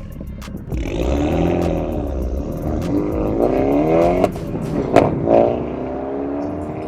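MINI Clubman Cooper S's turbocharged four-cylinder running through a Scorpion stainless GPF-back exhaust with GPF-delete section, revving up and dropping back at gear changes, then pulling steadily higher in pitch near the end. A couple of sharp cracks sound about four and five seconds in.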